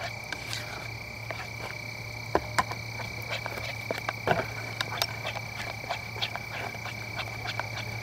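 Frogs calling in a rapid, continuous run of short clicking croaks over a steady high-pitched insect drone, with a few sharper knocks about two and a half and four seconds in.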